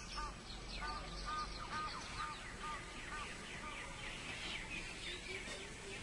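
Birds calling: a short arched note repeats about twice a second for the first half, over many quick high chirps that grow denser later on.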